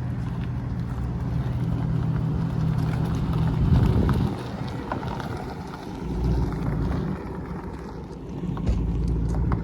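Car engine rumbling low as a car pulls in, swelling loudest about four seconds in, easing off, then swelling twice more near the end.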